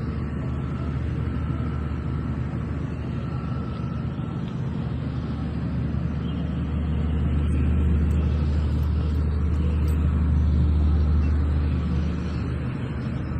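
Steady low rumble of a motor vehicle running, growing louder about seven seconds in and easing off slightly near the end.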